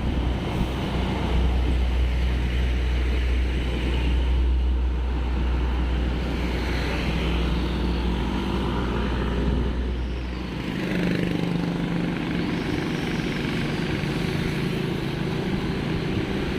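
Vehicle engine and road noise while on the move, with a heavy low rumble of wind on the microphone that cuts out about ten seconds in, leaving the engine hum.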